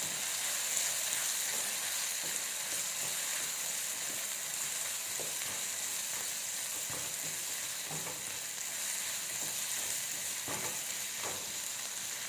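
Chopped vegetables (onion, tomato, capsicum, carrot and mushroom) sizzling steadily as they fry in oil in a kadai, with a few faint scrapes of the spoon stirring them.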